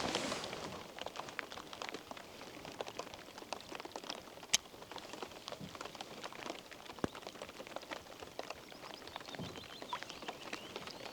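Light rain pattering as scattered, irregular drops, with one sharper click about four and a half seconds in.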